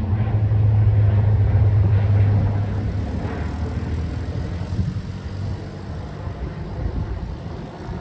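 Airplane engine noise after takeoff, fading steadily as the aircraft moves away. A low steady hum is strongest at first and dies out about three seconds in, leaving a fading rush.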